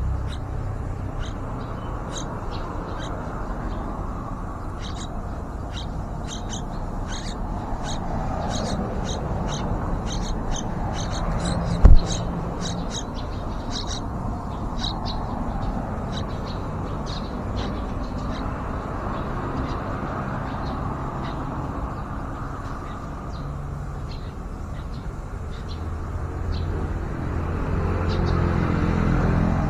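Small birds chirping: many short, high chirps in quick runs, busiest in the first half, over a steady low rumble. A single sharp knock sounds about twelve seconds in.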